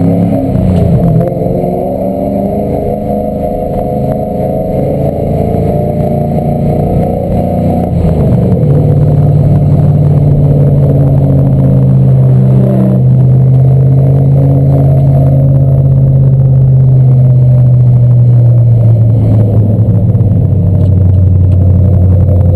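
Shelby sports car's engine heard from inside the cabin, pulling uphill with its pitch rising slowly, then a change about eight seconds in, after which it runs steadily and eases off gradually near the end.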